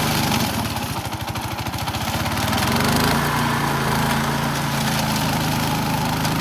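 The engine of a remote-controlled lawn mower running steadily. About a second in it dips in level with a fast low pulsing, then picks back up by about three seconds in.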